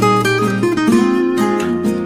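Background music: acoustic guitar playing a melody over chords.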